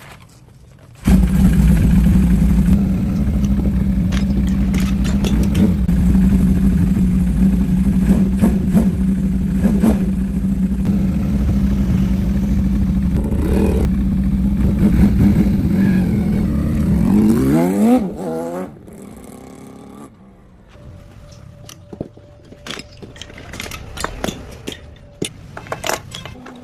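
Home-built four-cylinder engine running steadily at speed. Its pitch rises just before it cuts off sharply, after which there are quieter scattered clicks and clatter.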